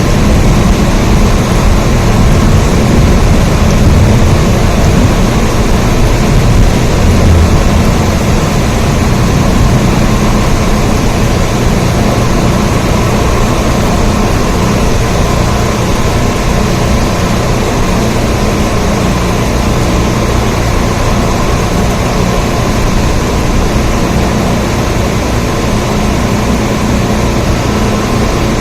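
Steady rain, an even hiss with a deep rumble underneath, a little louder for the first several seconds and then level.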